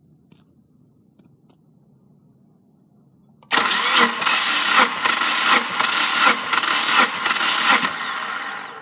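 Subaru FA20DIT 2.0-litre turbocharged flat-four engine turning over loudly on its starter motor during a test, with a regular pulsing beat. It begins suddenly about three and a half seconds in and stops shortly before the end.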